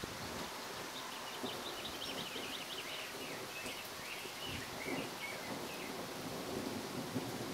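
Steady outdoor hiss of wind and rustling leaves before a storm, with a songbird singing a run of quick high chirps from about a second in until nearly five seconds.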